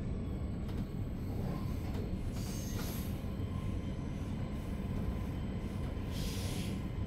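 Re 450 DPZ double-deck S-Bahn train running at speed, heard inside the passenger cabin: a steady low rumble of wheels on track. Two brief high squeals, about two and a half seconds in and again near six seconds, typical of wheel flanges squealing through curves.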